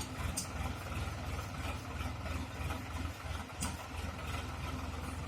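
Sonalika tractor's diesel engine running steadily at low revs, with an even low chug.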